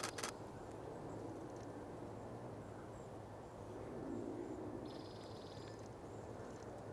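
Quiet outdoor ambience with low background noise. Thin, very high calls of cedar waxwings come at intervals, and a brief buzzy bird call sounds about five seconds in.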